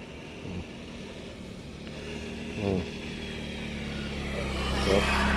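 Engine of a passing motor vehicle, a steady low hum that grows louder from about two seconds in as it approaches.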